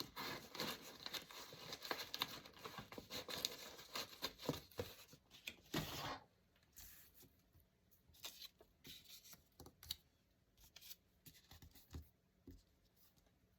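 Paper tearing and rustling for about the first six seconds, followed by fainter scattered light taps and rustles of paper being handled.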